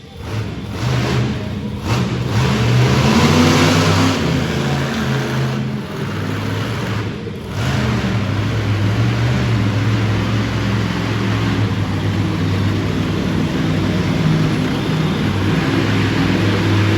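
Monster truck engine revving hard and holding high revs while the truck spins donuts. The revs drop briefly a few times, about two, six and seven seconds in.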